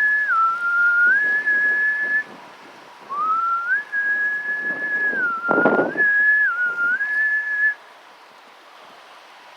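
A person whistling a tune: one clear note stepping and sliding between a few pitches, in two phrases with a pause of about a second between them. A brief low rush of noise cuts in about halfway through, and after the whistling stops near the end only faint wind noise remains.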